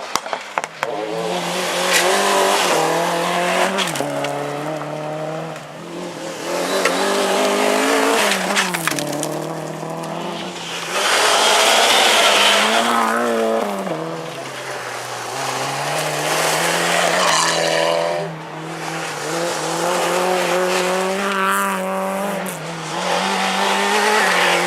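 Rally car engine revving hard, its pitch climbing and dropping as it changes gear and lifts off, with tyre skidding and a loud rush of noise about eleven to thirteen seconds in.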